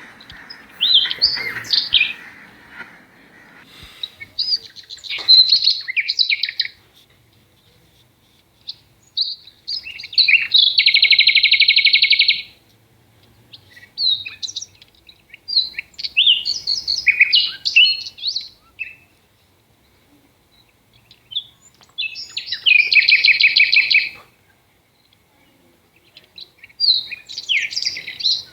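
Bird song: bursts of high chirps, twice broken by a long rapid trill, in phrases a few seconds apart with short quiet gaps between them.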